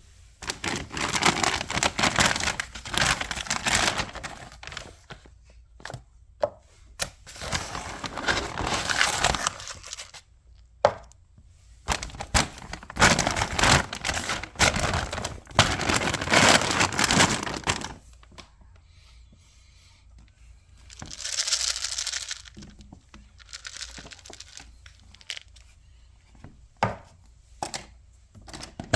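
Rustling and crinkling handling noise in several long bursts of a few seconds each, with a few sharp cracks in between.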